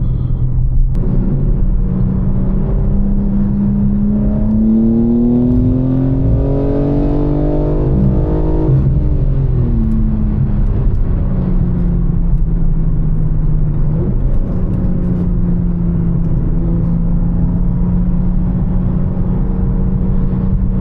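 BMW M4 Competition's twin-turbo inline-six driving under way, heard from the cabin over steady road and tyre noise. About four seconds in the revs climb under acceleration, drop sharply just before nine seconds as it shifts or lifts, then settle into a steady cruise.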